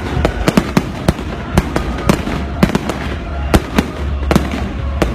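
Fireworks exploding in quick, irregular bangs, several a second, over a steady low rumble.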